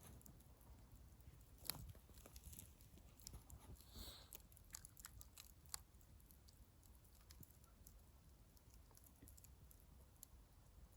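Faint wood campfire crackling: scattered small pops and clicks, with one sharper pop a little under two seconds in.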